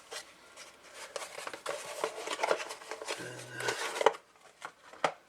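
Irregular clicks, knocks and clattering of test gear and leads being handled on a workbench, with a brief low hum a little after three seconds in.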